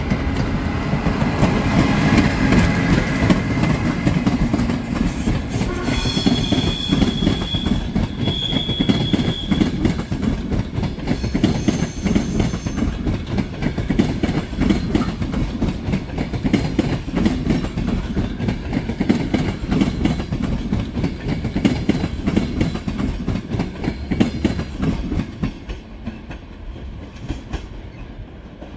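A Siemens EuroSprinter ES64U4 electric locomotive passes with a whine in the first few seconds, followed by its passenger coaches rolling by with a steady rumble and clatter of wheels on the rails. Brief high-pitched wheel squeals come about six to ten seconds in. The sound fades near the end as the train draws away.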